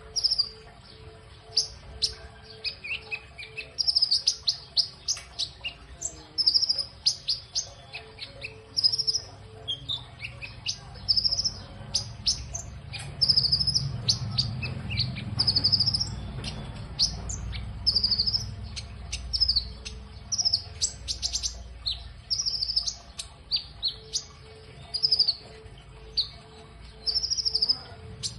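A songbird singing a busy, varied song of short, high chirps and quick sweeping notes, one phrase after another. A low rumble rises and fades in the middle.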